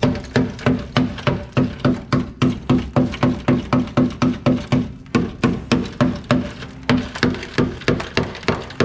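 Steady hammering on metal, about three blows a second, each blow ringing briefly.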